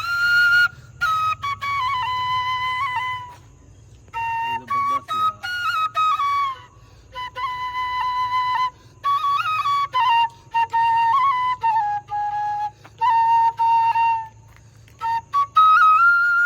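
A solo flute playing a slow melody in short phrases, with brief pauses between them, over a faint steady low hum.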